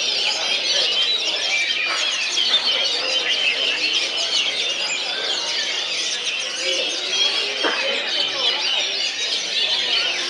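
Caged songbirds singing at a bird-song contest, a dense, unbroken chorus of rapid overlapping chirps, trills and whistles.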